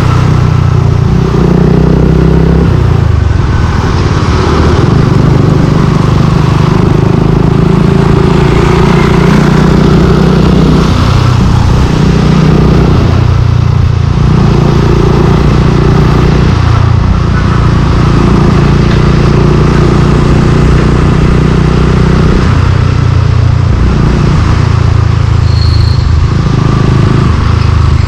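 Suzuki Gixxer 155's single-cylinder engine running through a Yoshimura aftermarket exhaust while riding. The pitch steps up and down every few seconds with throttle and gear changes.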